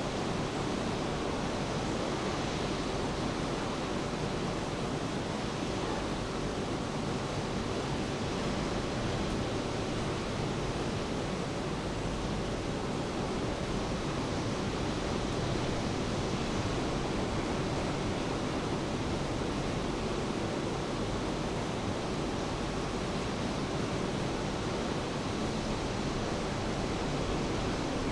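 Steady rain falling, an even hiss with no change in loudness.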